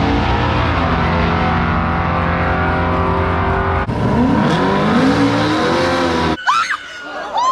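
A sixth-generation Camaro's V8, running on E85 with aftermarket headers, loud and steady at low revs, then revving up and down twice from about four seconds in. About six seconds in it cuts off suddenly and a voice takes over.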